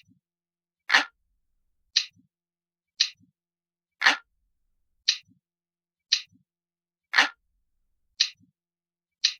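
Analog clock ticking steadily, about one tick a second, with every third tick a fuller click that reaches lower in pitch.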